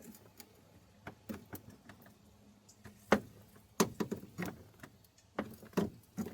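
Sharp plastic clicks and knocks as a plastic clip holding a car's wiring harness is pried loose, the loudest about three seconds in and more in clusters near four and five and a half seconds.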